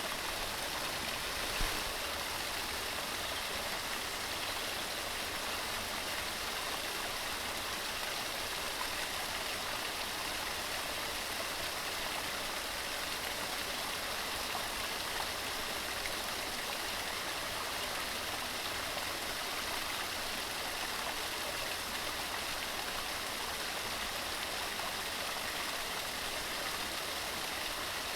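Waterfall pouring over rocks: a steady rushing water noise, with one small low bump about a second and a half in.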